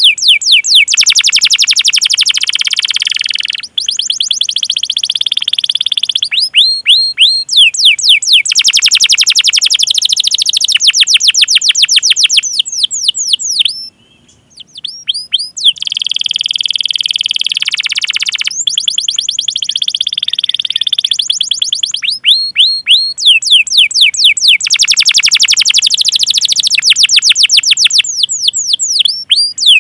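Domestic canary singing a long, loud song: runs of quickly repeated falling 'cuit cuit' whistles alternating with fast rolling trills and held notes, broken by one short pause about halfway through.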